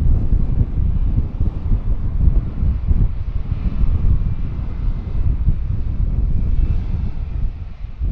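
Jet airliner engines with a faint steady whine, largely buried under heavy wind buffeting on the microphone. The rumble eases a little near the end.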